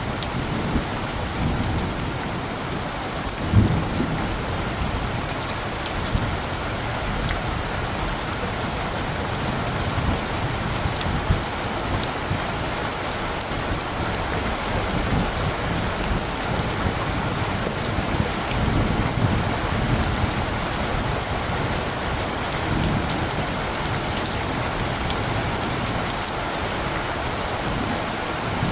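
Steady rain falling, with many individual drops ticking close by. Low rumbles of light distant thunder swell and fade under it several times, the strongest about three and a half seconds in.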